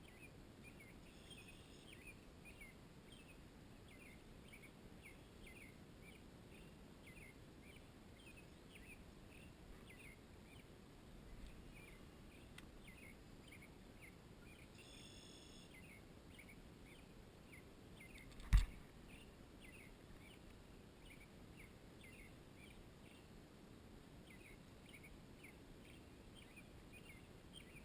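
Faint background ambience with a small bird giving quick, high chirps over and over, about two a second. One sharp knock about two-thirds of the way through is the loudest sound.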